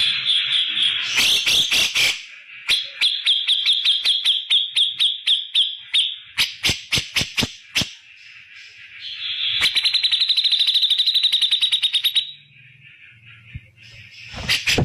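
Cucak jenggot (grey-cheeked bulbul) calling in loud bursts: runs of quick repeated sharp notes and fast chattering trills, each burst a few seconds long with short pauses between them.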